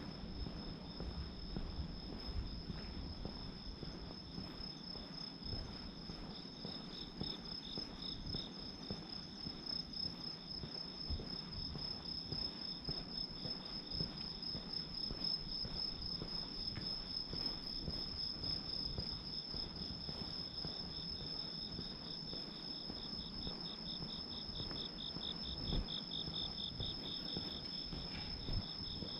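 Crickets singing: two steady high-pitched trills at slightly different pitches. The lower one pulses quickly and grows louder near the end.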